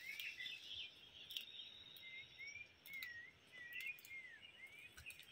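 Faint birds chirping: a string of short, curved, repeated notes, about two a second, with a few faint clicks.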